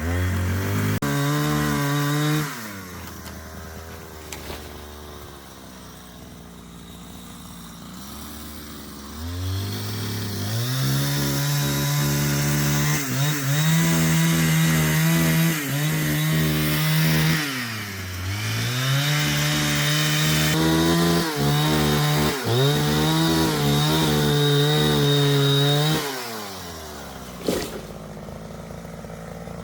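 Two-stroke chainsaw running at high revs for a couple of seconds, dropping to idle, then revving up again for a long run of about sixteen seconds with brief dips in pitch, as when the saw cuts through wood. It falls back to idle near the end, followed by a short sharp click.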